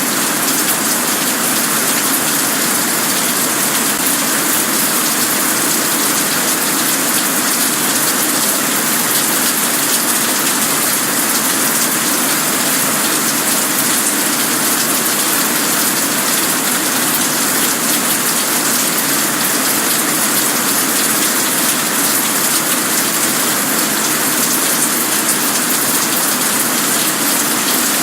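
Steady rain falling, a loud even hiss that does not change.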